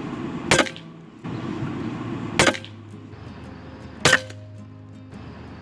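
Three sharp shots from a .22 Huben K1 semi-automatic PCP air rifle, a little under two seconds apart, each with a brief ringing tail, over a steady low hum.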